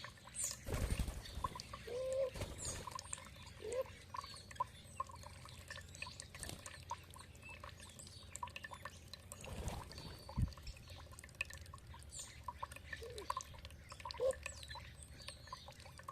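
Water trickling and dripping in a steady patter, with birds calling in short chirps and brief rising-and-falling notes. Twice, about a second in and around ten seconds in, a louder splash-like rush of water.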